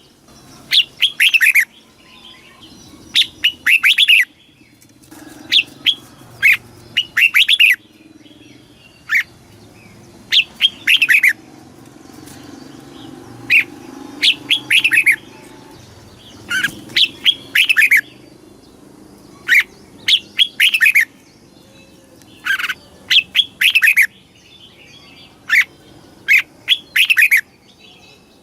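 Red-whiskered bulbul singing: short, loud phrases of several quick, falling whistled notes, repeated every second or two.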